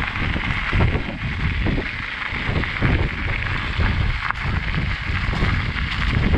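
Wind buffeting the microphone, with irregular low rumbling gusts over a steady hiss.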